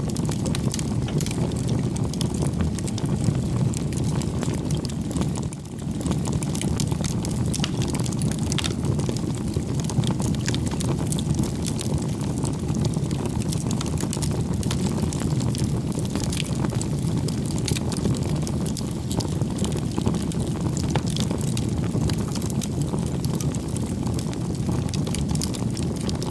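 Campfire burning: a steady low rumble of flames with frequent small crackles and pops from the wood. The sound dips briefly about five and a half seconds in.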